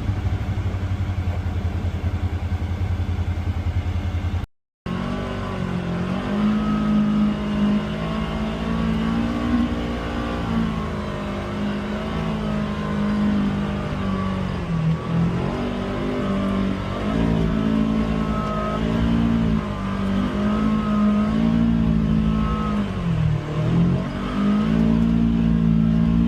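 Polaris Xpedition UTV engine running on a trail, its pitch rising and falling again and again with the throttle. The sound cuts out completely for a moment about four and a half seconds in.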